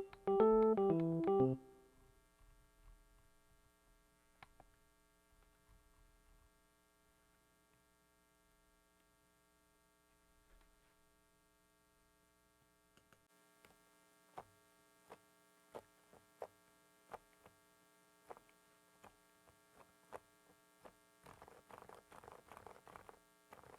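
Mechanical keyboard switches being pressed, single keystrokes about one or two a second, then fast continuous typing near the end. A steady electrical hum from a faulty microphone runs underneath, and a short piano music sting ends about a second and a half in.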